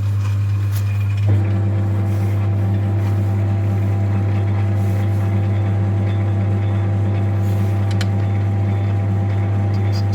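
Metal lathe running with a steady low hum while boring out a diesel piston's combustion bowl. About a second in there is a short knock, and from then on a higher steady whine joins the hum as the machine takes the next cut.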